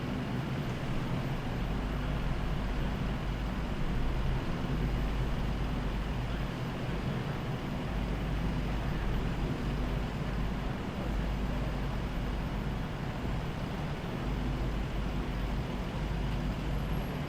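Steady road traffic with a low engine hum, like a vehicle idling nearby.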